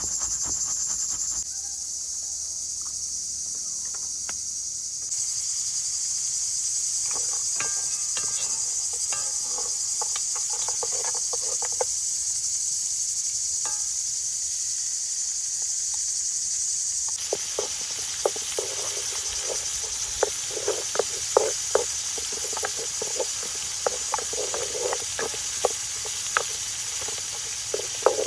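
Steady high-pitched chorus of crickets or other insects, with scattered short knocks and taps that come thicker in the last third.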